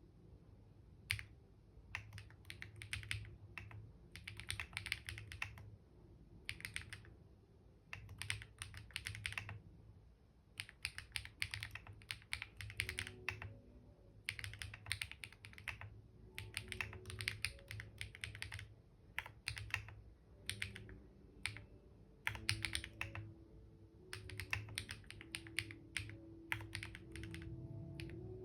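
Computer keyboard typing: quick runs of keystrokes in bursts of a second or two, broken by short pauses.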